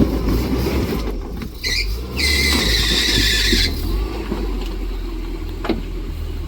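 Off-road truck engine running with a low steady rumble; about two seconds in a high-pitched squeal cuts in for about a second and a half, after a brief squeak just before it.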